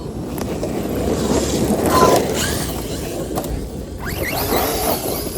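Radio-controlled cars running on a dirt track: a rushing noise of tyres and motors that swells to its loudest about two seconds in, with faint voices near the end.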